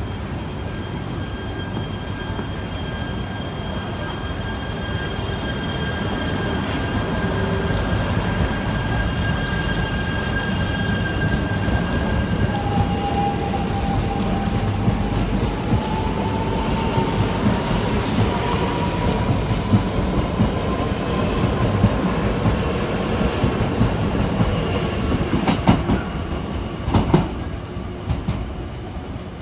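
JR East E3 series 2000 Shinkansen pulling out and accelerating past the platform. Its Hitachi IGBT VVVF inverter sings in steady high tones, and then a tone rises slowly as the train picks up speed, over the rumble of the passing cars. Two sharp clicks come near the end.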